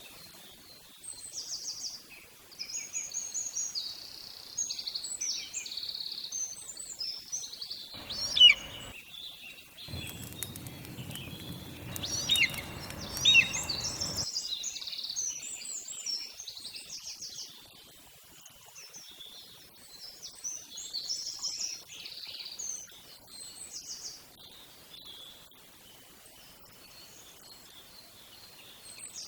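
Several songbirds chirping and singing in a busy, overlapping chorus of quick high notes, with two sharp, loud calls about eight and thirteen seconds in. A rushing noise joins in for several seconds in the middle.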